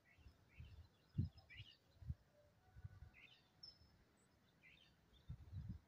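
Faint bird chirps, short high calls scattered every second or so over quiet outdoor ambience. A few soft low thuds break in, the loudest about a second in and near the end.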